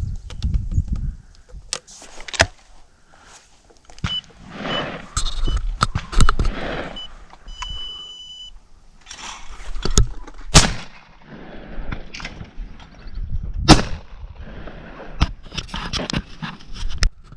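16-gauge Browning Citori over-and-under shotgun firing at clay targets: three sharp shots, the two loudest about three seconds apart in the second half, with wind and handling noise between them. A short series of electronic beeps, the last one longer, sounds midway.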